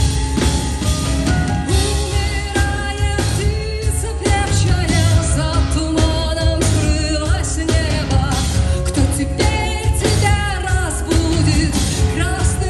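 A woman singing a rock song with a full rock band, drums and bass keeping a steady beat under her voice.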